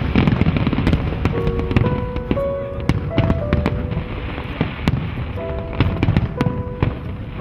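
Fireworks display: many sharp bangs and crackling pops over a steady low rumble, with music playing alongside.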